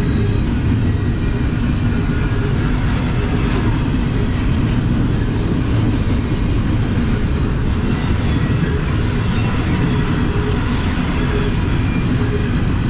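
Double-stack container well cars of a freight train rolling past: a steady, loud rumble and rattle of steel wheels on rail.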